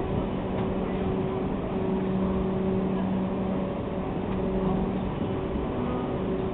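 A train standing at a station platform: a steady mechanical drone with an even, low hum and no chuffing beat.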